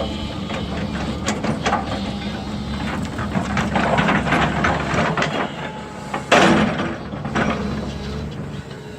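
Diesel earthmoving machine running steadily, with many clanks and knocks of metal, rock and wood as it works the ground. There is a loud sudden crash about six seconds in.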